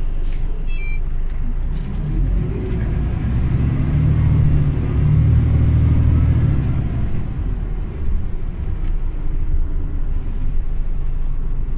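Scania OmniLink city bus's diesel engine running as the bus drives, a steady low rumble that pulls harder for several seconds in the middle and then eases off.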